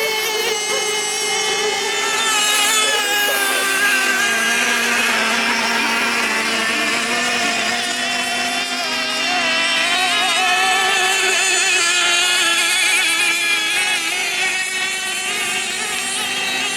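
Several radio-controlled model racing boats running at once, their motors whining at shifting pitches that rise and fall as they race.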